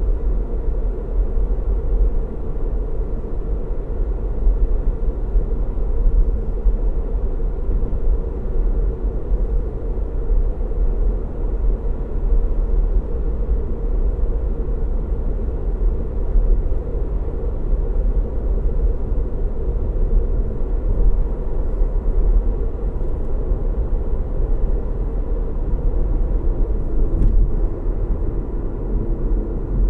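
Steady road noise of a car driving at a constant speed: a low rumble of tyres and engine hum, with no changes in speed.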